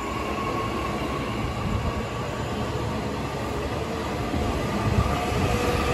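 Nishitetsu electric commuter train at the platform, running steadily with a faint motor whine. Past the middle the whine begins to rise and the sound grows louder as the train starts to pull away.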